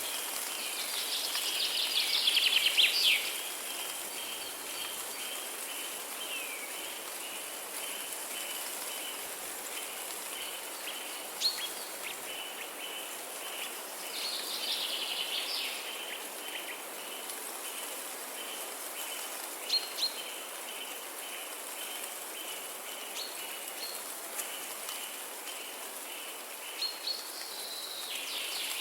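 Birds singing over a steady outdoor hiss of rain or water. Louder bursts of song come three times: at the start, midway and near the end. Under them a short chirp repeats evenly at one pitch, and a few sharp ticks sound now and then.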